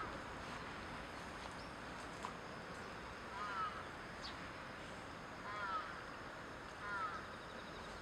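A bird calling four times over steady outdoor background noise, each call a short falling note.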